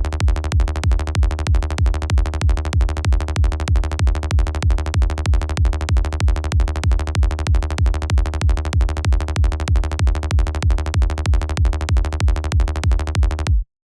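Electronic kick drum and synth bass loop playing back in a steady four-on-the-floor pattern with a deep low end, the kick from Kick 2 and the bass from Sylenth. It stops abruptly near the end.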